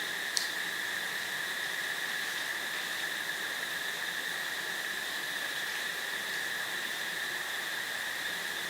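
Steady, unbroken chorus of crickets trilling over a background hiss, with one short click about half a second in.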